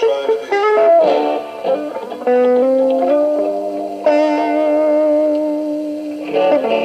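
Electric guitar playing a lead line: quick runs of notes, then a long sustained note with vibrato held for about two seconds, and faster notes again near the end.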